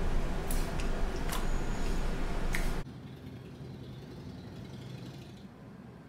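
A man chewing a big mouthful of food, with a few sharp clicks over steady room noise; a little under halfway through, the sound drops suddenly to a faint hiss.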